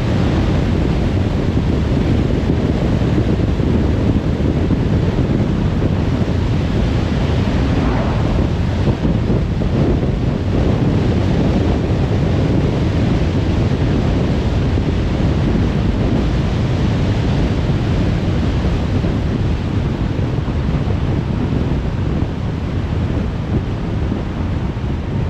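Steady rush of tyre and wind noise from a car driving at speed on a motorway.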